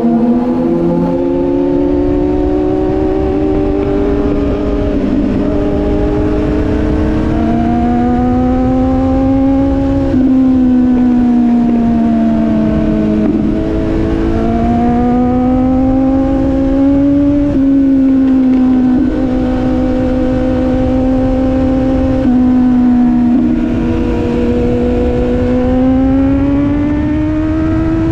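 Sport motorcycle engine running under way, its pitch climbing and dropping several times as the throttle and gears change, over steady low wind rumble.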